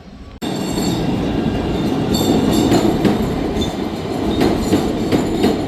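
Chicago 'L' rapid-transit train running on the rails: a loud, dense rumble with repeated clicks and clacks of the wheels over the rail joints. It starts abruptly just under half a second in.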